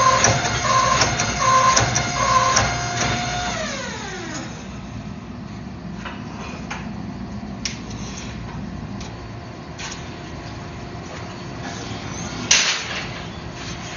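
A machine's motor whine with a repeating beep over it; about four seconds in, the whine winds down in pitch and stops, leaving a low steady hum with a few scattered knocks and one sharp clank near the end.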